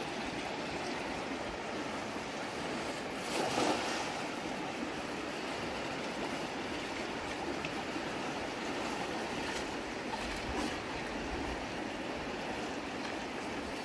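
Fast-flowing river water rushing steadily, with a brief louder surge of water noise about three and a half seconds in.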